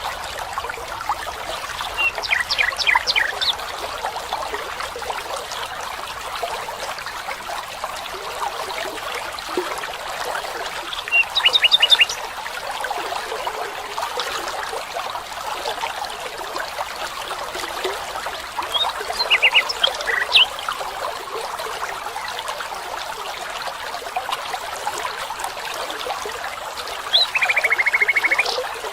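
Steady trickling of a stream, with four short bursts of rapid chirping calls, one about every eight seconds.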